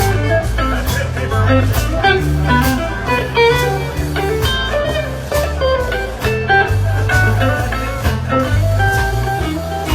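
Blues band playing an instrumental passage: electric guitar lines over a moving bass line and a steady beat.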